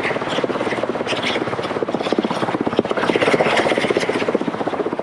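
Helicopter running steadily, its rotor giving a rapid, even chopping beat.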